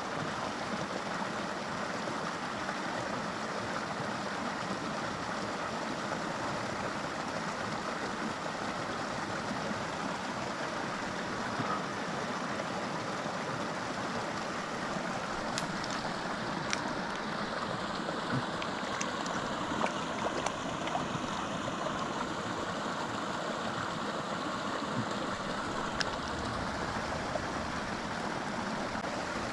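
Small mountain creek flowing, a steady rush of running water, with a few light clicks in the second half.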